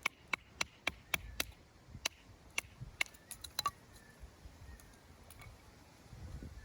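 Wood fire crackling: sharp pops about three a second for the first second and a half, then scattered pops that thin out after about four seconds.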